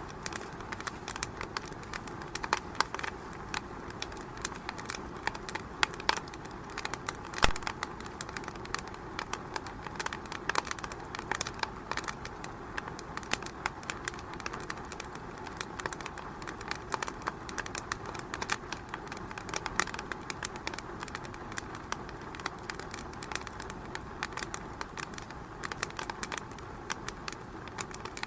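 Wood fire in a fireplace crackling: a steady hiss under frequent, irregular pops and snaps, with one louder pop about seven and a half seconds in.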